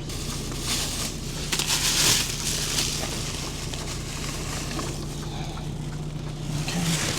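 Rustling and crackling of things being handled and moved about, in irregular bursts, over a steady low hum.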